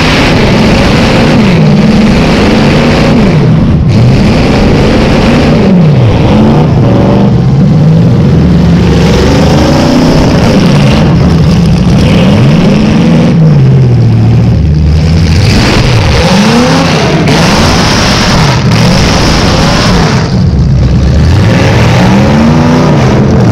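Chevrolet Caprice derby car's V8 engine running loud through short open exhaust pipes, revving up and falling back again and again as the car is driven hard.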